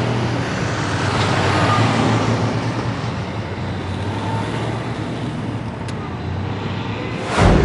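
A truck's engine running with steady road and traffic noise, then a loud whoosh near the end.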